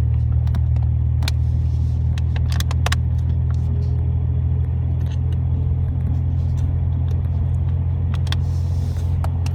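Truck engine and road noise droning steadily inside the cab as it drives along, with scattered light clicks and rattles over it.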